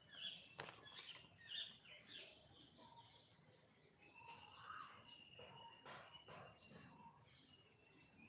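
Faint outdoor background: small birds chirping now and then over a steady, high insect drone, with a few light taps.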